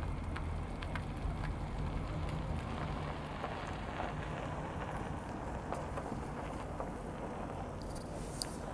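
A car engine running with a low, steady hum that fades after about three seconds, over outdoor noise with scattered light ticks.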